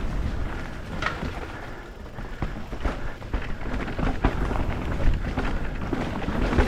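Mountain bike riding down a dirt trail: wind rumbling on the camera microphone, with tyre noise and many short rattles and knocks as the bike runs over rough ground.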